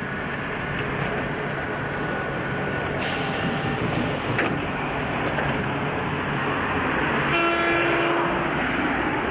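Road traffic running past on a city street. About three seconds in comes a hiss of air brakes lasting over a second, and near the end a horn toots once, briefly.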